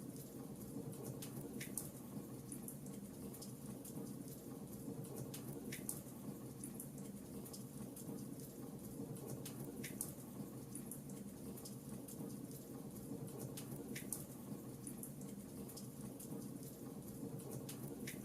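Fireplace crackling: a steady low rush of burning with small high crackles throughout, and a sharper pop about every four seconds.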